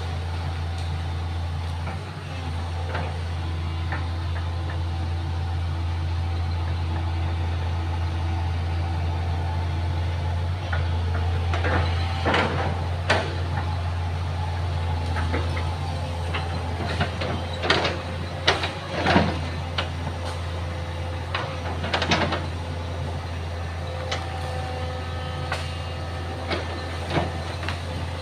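Excavator engine running steadily, with several sharp knocks about halfway through.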